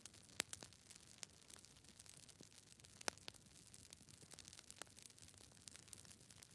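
Near silence with faint, irregular clicks and ticks, a few of them louder, scattered through.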